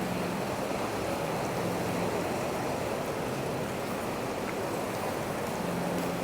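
Steady wash of ocean surf on the beach. A faint low hum sits under it at the start and again near the end.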